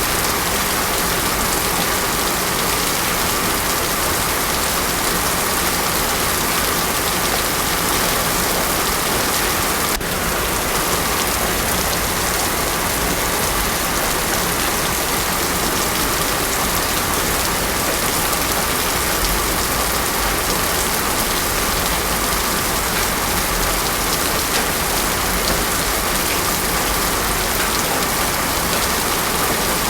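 Heavy rain pouring steadily onto a paved road: a dense, even hiss of drops with no thunder.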